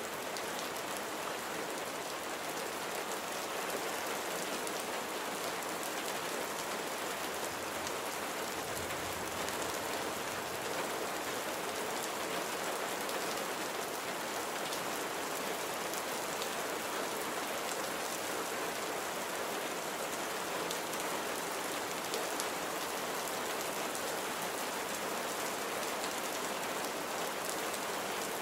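Steady rain falling, an even hiss with scattered drop ticks, and a brief low rumble about nine seconds in.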